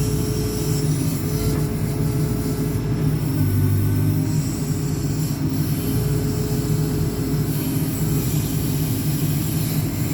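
JCB 4CX backhoe loader's diesel engine running under load while the rear backhoe boom works. It is a steady, low-pitched engine note that swells briefly a few seconds in.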